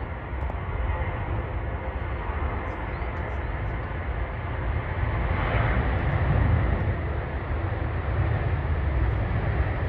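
Jet airliner engine noise over a steady low rumble, swelling to its loudest about six seconds in as the aircraft passes, then easing off.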